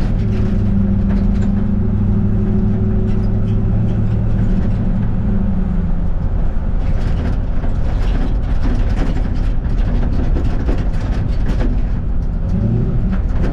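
Ford Mustang 5.0-litre V8 in a pickup truck running steadily under way, a low drone that gives way to a more even road and wind rumble about halfway through.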